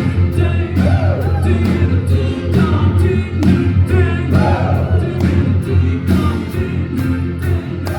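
Live rock band playing with several voices singing together over a steady drum beat and bass.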